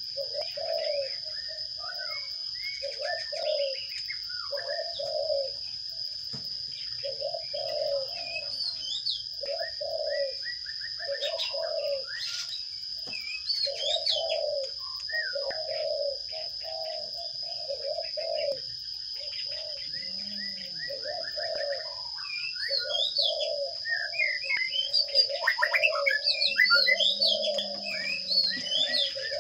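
Sparrows chirping in quick, rising and falling notes that grow busier and louder near the end, over a dove cooing in short, evenly spaced notes about once a second. A steady high-pitched whine runs under it all.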